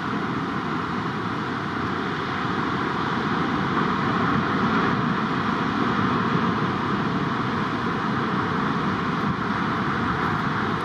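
Steady rushing roar of heavy ocean surf, swelling slightly about halfway through, with no distinct engine note.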